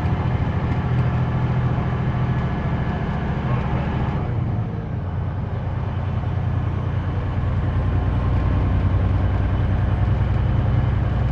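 Semi-truck's diesel engine running with a steady low drone. It eases off briefly about four to five seconds in, then settles and builds again.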